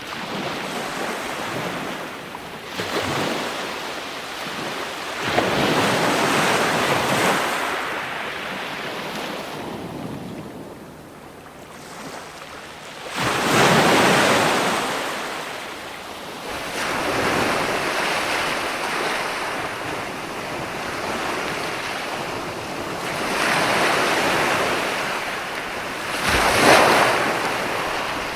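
Ocean surf: waves breaking and washing up the shore in slow surges every few seconds, the biggest about halfway through and near the end, with wind rumbling on the microphone.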